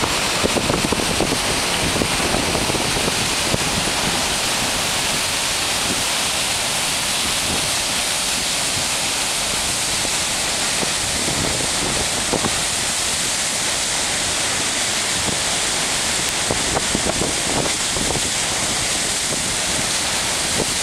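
Steady rush of floodwater pouring through the Portage Diversion channel at high flood flow, with wind buffeting the microphone.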